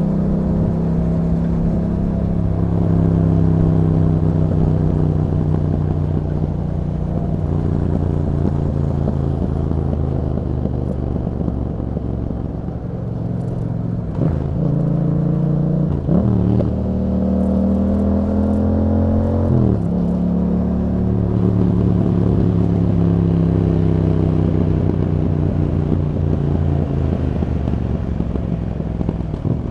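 2021 Yamaha MT-07's parallel-twin engine through an Akrapovic exhaust, running under load while ridden, its note rising and falling with the throttle. In the middle the pitch drops and jumps sharply a few times at quick gear changes.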